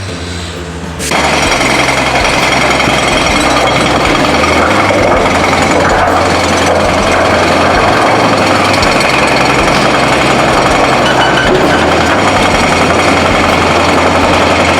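Heavy construction machinery at work: a loud, dense mechanical clatter starts suddenly about a second in and keeps going steadily over the low hum of a diesel engine.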